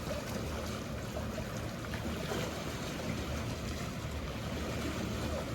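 Steady seaside harbour ambience: a low hum of boats with the wash of sea water, with no sudden events.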